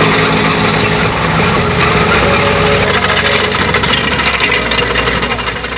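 Tractor diesel engine running steadily under a dense metallic clatter and rattle.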